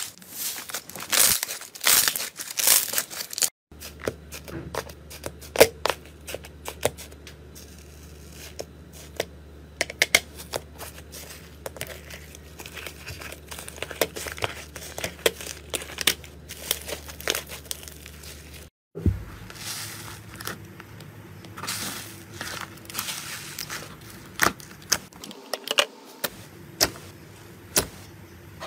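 Slime being squeezed, pressed and poked by hand, giving crinkly crackles and many sharp clicks and pops. Three separate clips follow one another, cut apart by brief silences about 4 and 19 seconds in.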